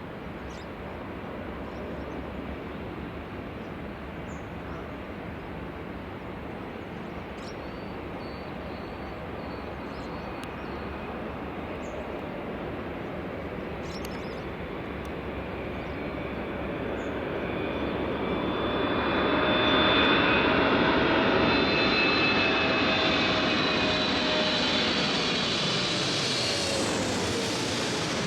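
Boeing 777-300ER's twin GE90-115B turbofans on approach, growing louder to a peak about two-thirds of the way in as the jet passes. A whining fan tone drops in pitch as it goes by.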